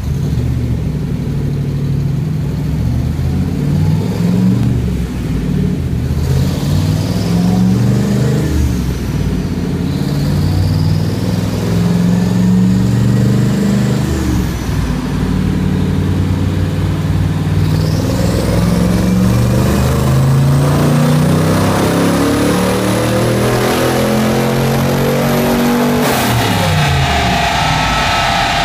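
Twin-turbocharged Factory Five Cobra replica's engine under load on a chassis dynamometer, revving up and dropping back several times. It then climbs in one long full-throttle pull, with a high whistle rising alongside. Near the end comes a sharp burst as the throttle closes, and the revs fall away.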